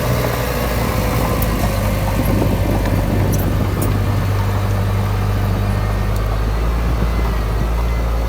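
Heavy diesel engine of earthmoving machinery running steadily, with a few faint clicks near the middle.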